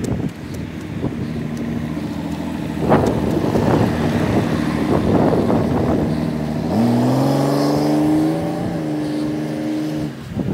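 Car engine running with a steady hum, rising in pitch about seven seconds in as it speeds up, then stopping shortly before the end.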